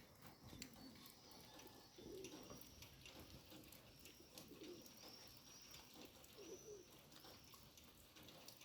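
Faint bird cooing: three low coos, roughly two seconds apart, with a few faint high chirps.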